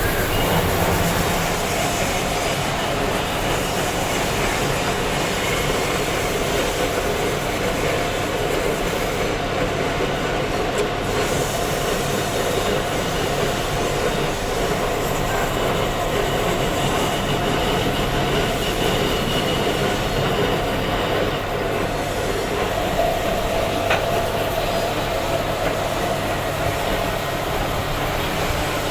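A machine running steadily and loudly, with a faint steady whine over an even rumble, typical of a power tool working stone.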